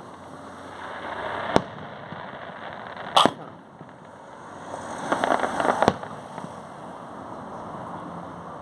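Fireworks going off: a sharp bang about one and a half seconds in, another louder one about three seconds in, then a second of rapid crackling ending in a final crack.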